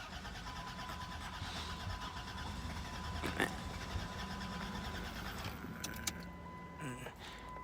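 The 3.3-litre V6 of a 2002 Dodge Grand Caravan being turned over by its starter in a steady, fast rhythm for about five seconds without catching. It cranks but won't start even though it has spark, a new fuel pump and a new fuel filter.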